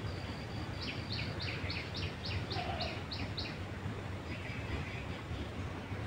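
A bird calling: a quick series of about ten short, high notes, roughly three a second, with a few fainter chirps afterwards, over a steady low background noise.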